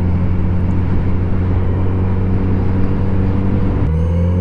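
Kawasaki motorcycle of about 900 cc running steadily at cruising speed with the rush of riding air around it. Near the end the engine note shifts and starts to rise as the throttle changes.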